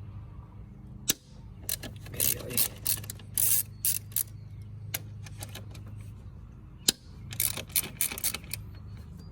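Socket ratchet clicking in short, irregular bursts, with metal tool clinks, over a low steady hum.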